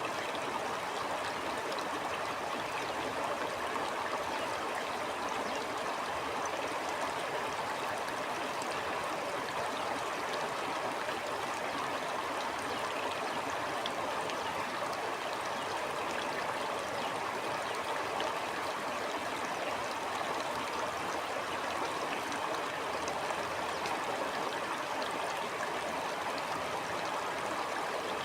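Stream water flowing in a steady, even rush, with no breaks or changes.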